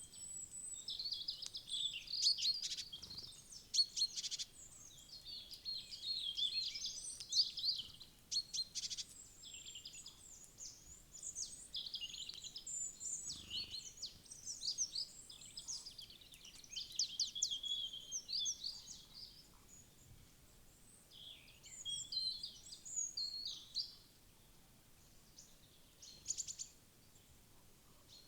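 Small woodland birds chirping and calling in quick, overlapping bursts of high notes. The calls thin out briefly about twenty seconds in and again near the end.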